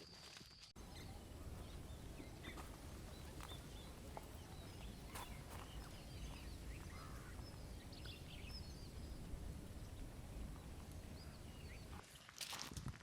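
Quiet forest ambience: a low, steady outdoor rumble with faint, short bird chirps scattered through it. A few footsteps come in near the end.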